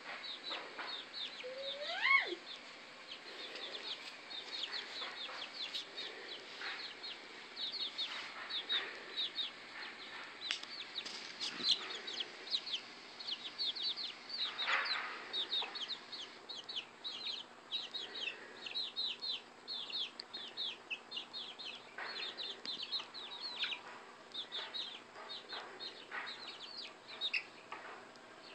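Chickens calling continuously: many short, high-pitched, falling peeps overlapping, with one louder rising call about two seconds in.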